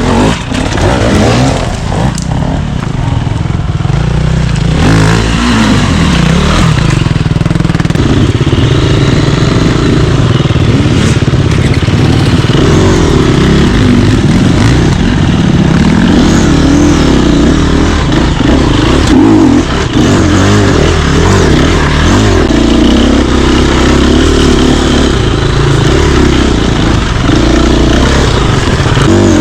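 Dirt bike engine running loud and continuously, its pitch rising and falling as the throttle is worked.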